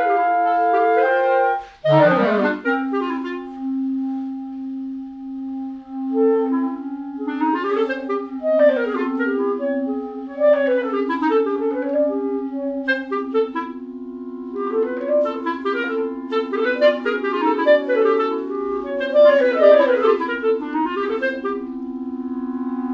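Clarinet playing contemporary concert music. A quick upward sweep about two seconds in leads to a long held low note, with rapid, darting flurries of short notes above it that rise and fall in bird-like figures.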